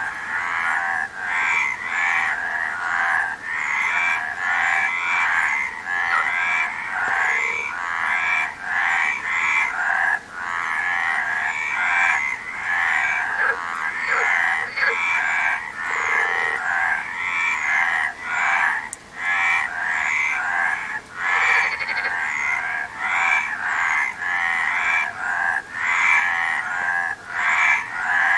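A dense chorus of many frogs croaking. The calls overlap without a break, a few a second, with only brief dips between them.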